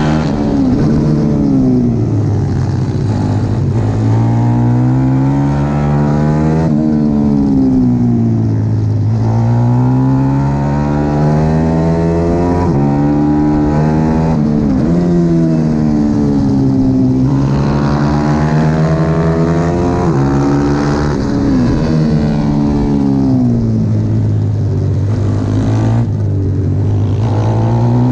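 Pit bike engine at racing revs, its pitch climbing and falling again and again every few seconds as it accelerates and backs off, with a few sudden jumps in pitch.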